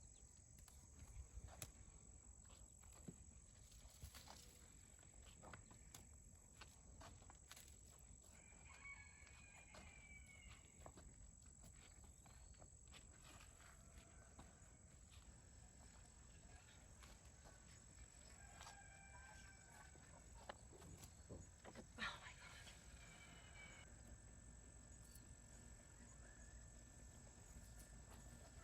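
Faint outdoor ambience: a steady high-pitched insect drone, scattered light clicks and taps, and a few faint calls.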